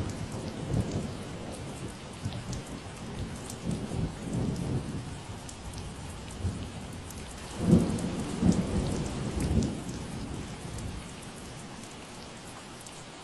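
Steady rain falling with scattered drop ticks, under a low, uneven rumble of thunder that swells about two-thirds of the way through and then fades away near the end.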